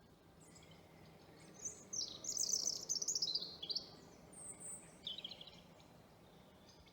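A songbird singing in the woods at dusk: a quick run of high notes that falls in pitch, about two seconds in, then a short very high note and a brief twitter.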